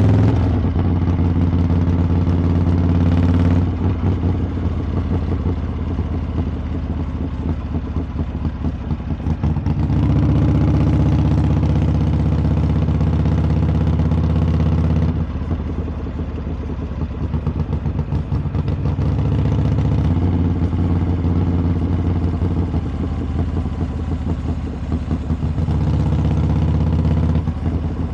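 Harley-Davidson V-twin engine and exhaust running during a ride, loud throughout. It alternates several times between stretches under throttle and quieter stretches off the throttle.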